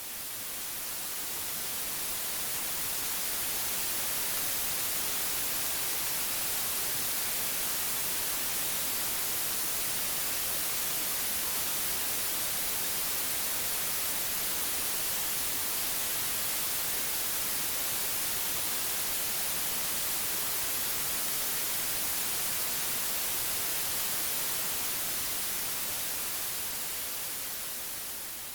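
White noise: a steady, even hiss, brightest at the high end, that swells up over the first few seconds and fades down near the end.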